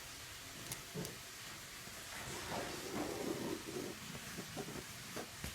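Faint handling and drawing sounds on paper over a steady hiss: a couple of light taps about a second in, then a stretch of irregular scratching and rustling.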